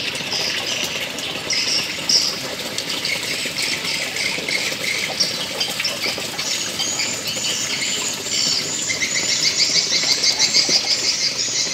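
Small birds chirping and twittering over a steady hiss, the chirping growing busier in the second half.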